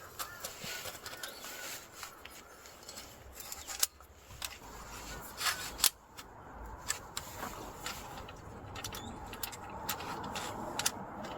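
A few sharp clicks and taps, scattered irregularly, over a soft steady hiss.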